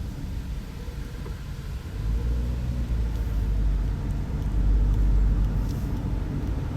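Low road and engine rumble of a car being driven, heard inside the cabin, growing louder about two seconds in.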